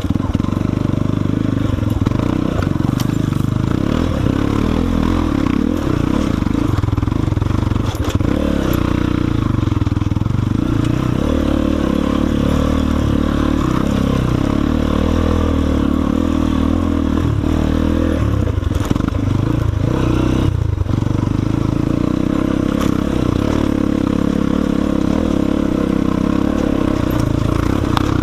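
Enduro dirt bike engine running at trail speed, its pitch rising and falling with the throttle, with scattered knocks and clatter from the bike over rough ground.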